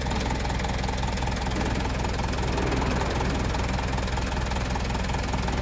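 A vehicle engine idling steadily, with a fast, even beat and a low hum.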